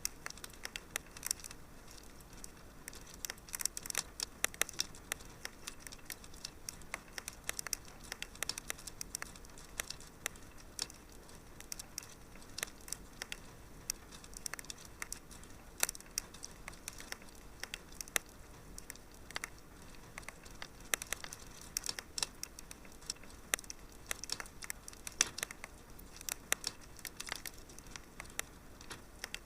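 Wood fire burning in a fireplace, crackling with frequent irregular sharp pops and snaps over a soft steady hiss.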